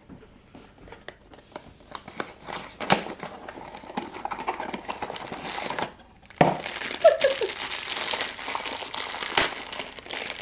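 Crinkling, crackling and tearing of the packaging as a Funko Mystery Minis blind box is opened by hand, with many small clicks and crackles and a brief pause a little past halfway.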